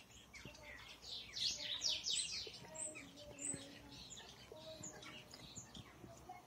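Small birds chirping, with a quick run of high, falling chirps about a second in that is the loudest part, and scattered chirps after it.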